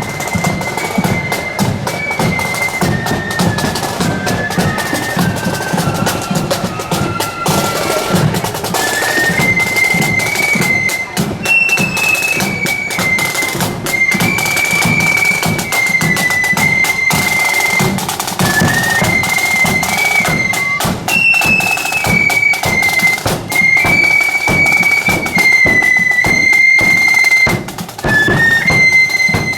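Marching flute band playing a tune: flutes in unison carry a high melody of stepping notes over busy snare drumming and a bass drum beat.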